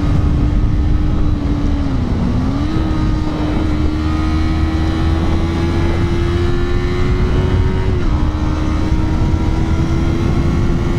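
Yamaha R3's 321 cc parallel-twin engine running hard while riding, its note climbing slowly and dropping sharply about eight seconds in at a gear change, with a shorter dip about two seconds in. Heavy low wind rumble runs underneath.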